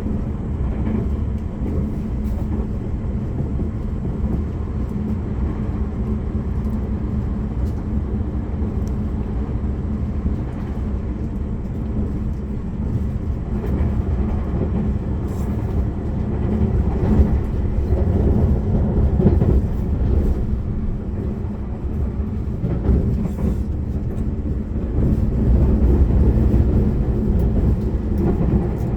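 Interior of a Tobu Railway limited express train running at speed: a steady low rumble with scattered short clicks from the wheels over the track. The sound swells louder a few times in the second half.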